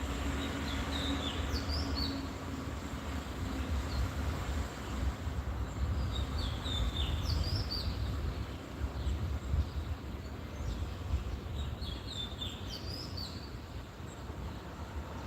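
A songbird singing in three short bouts of quick, sliding chirps, spaced about five seconds apart, over a steady low rumble.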